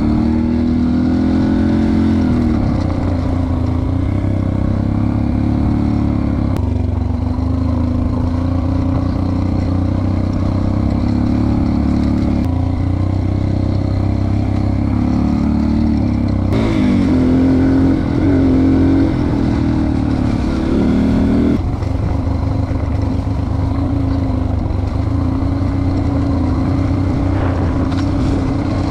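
Dirt bike engine running under way, its pitch rising and falling with the throttle, with a few sudden shifts in the sound.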